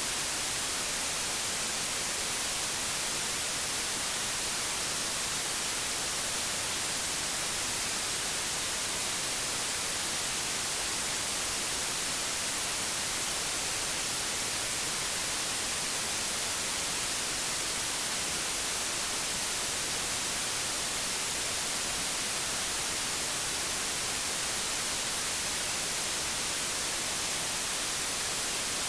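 Steady hiss of analogue television static, with no clicks or changes.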